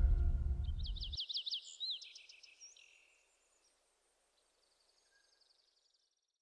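Background music fades and cuts off about a second in, while a small bird sings a quick run of chirps that fade away. Then near silence, with a very faint trill near the end.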